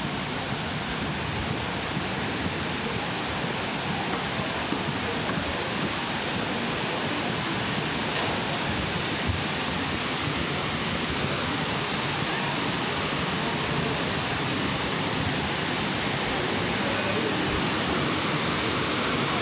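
Steady rushing of falling water from a waterfall, growing a little louder near the end.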